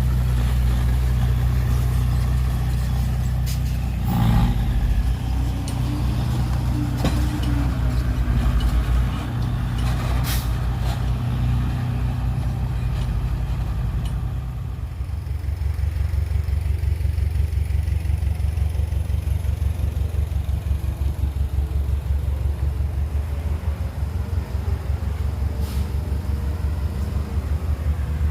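Heavy diesel engines of earthmoving machinery running, with a few short knocks. About halfway through the engine note drops to a lower, fast-pulsing rumble.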